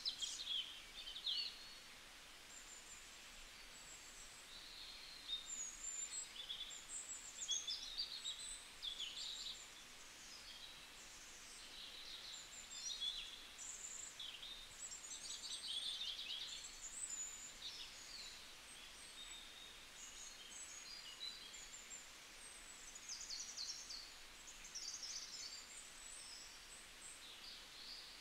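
Birds chirping and twittering: quick, overlapping high-pitched chirps and short sweeping notes throughout, over a low steady hiss.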